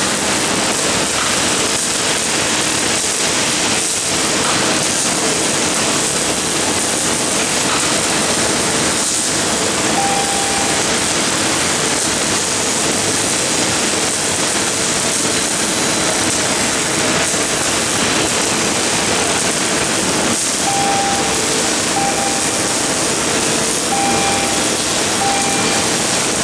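MIG welding arc on an automatic CNC gantry welder, a steady loud crackling hiss, with short clean whining tones coming and going about ten seconds in and again from about twenty seconds on.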